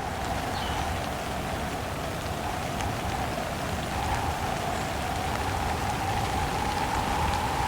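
Steady heavy rain with wind howling over it, the wind's tone slowly rising in pitch and growing a little louder toward the end.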